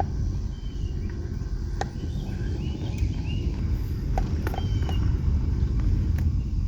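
Low, steady rumble of a car driving slowly, with several short bird chirps over it and a few faint clicks.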